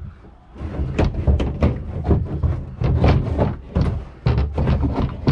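A boat fuel tank being shifted out of the hull: a quick irregular string of knocks, thumps and scraping.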